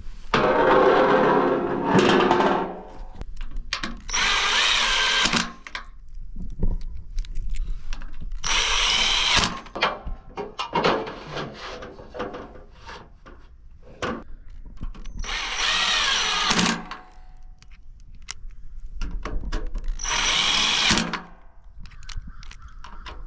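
Cordless power drill driving bolts into an aluminium pergola frame in five short runs, the motor speeding up and slowing down on each.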